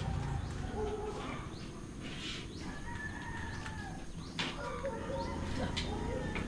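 Birds calling in the background, including one longer held call about halfway through, over a low steady rumble, with a couple of sharp knocks in the second half.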